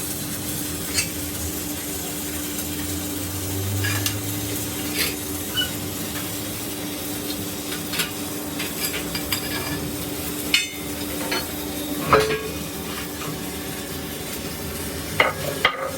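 Light metallic taps and clinks, scattered and irregular, over a steady hum, with a louder knock about twelve seconds in and a quick cluster of knocks near the end.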